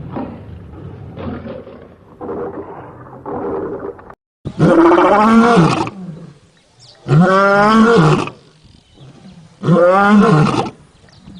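Lion roars: several softer, shorter roars, then after a brief break about four seconds in, three long loud roars in a row, each rising and then falling in pitch.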